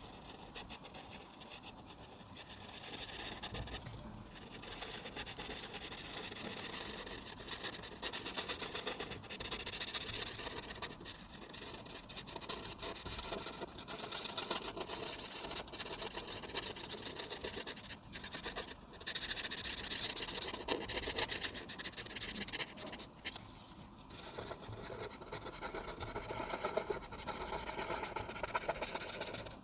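A coloring pen or pencil scratching back and forth across paper in quick, continuous strokes, with a few brief pauses as it is lifted.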